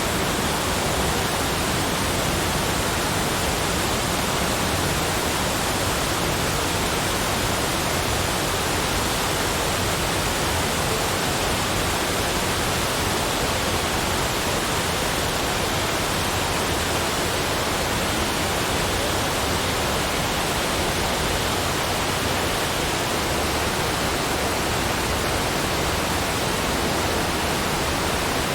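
Steady, unchanging rushing noise spread evenly from low to high pitches, with no distinct events.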